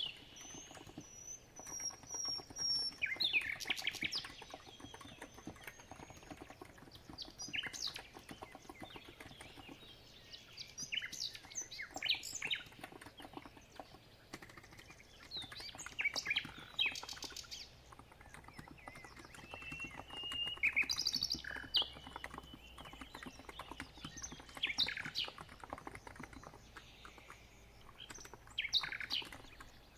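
Birds chirping in short calls that come and go every few seconds, over a steady run of keyboard typing on a COX Empress electrostatic capacitive (non-contact) keyboard.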